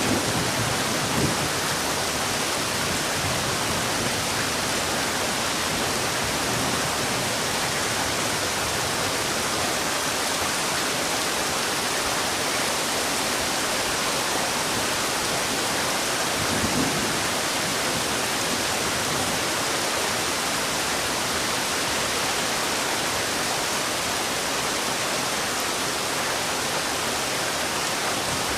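Heavy rain falling steadily: a dense, even hiss with no let-up, and a couple of faint low bumps about a second in and again around seventeen seconds.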